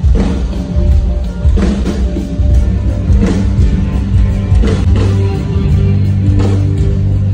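A live rock band playing loudly through a stadium PA during a soundcheck: heavy held bass notes with drum hits landing about every second and a half.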